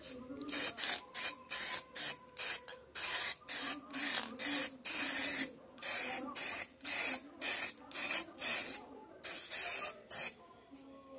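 Aerosol spray-paint can hissing in a quick series of short bursts, nearly two a second with a few held a little longer, stopping about a second before the end.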